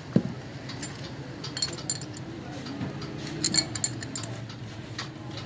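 Light metallic clicks and clinks of hand tools working on a Suzuki Bolan steering box while its play is adjusted and tightened, with one sharp knock just after the start and a quick run of clicks about three and a half seconds in.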